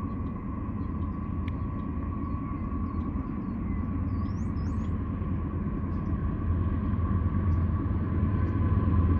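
Union Pacific grain train rumbling steadily, with a steady whine above the rumble, growing louder toward the end.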